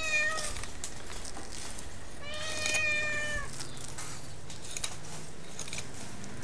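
Cat meowing twice: a short meow at the start and a longer, drawn-out meow about two seconds in.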